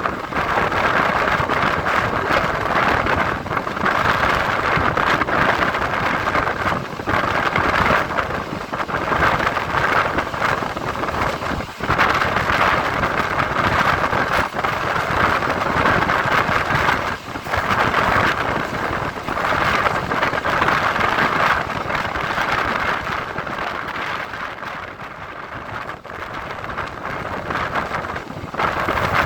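Electric multiple-unit (EMU) local train running at speed, heard from on board: a steady rush of wind and rail noise with brief dips, easing off for a few seconds near the end.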